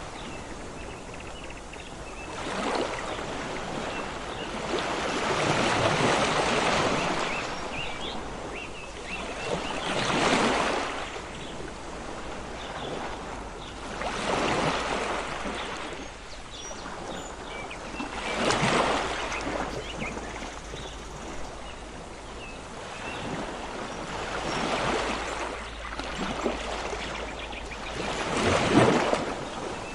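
Ocean waves surging and washing in, one swell of noise about every four seconds over a steady hiss.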